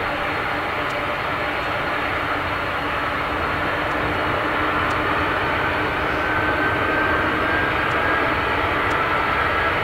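Jet airliner engines on approach to land: a steady, loud jet rumble that grows slightly louder. A faint high whine comes in about six seconds in.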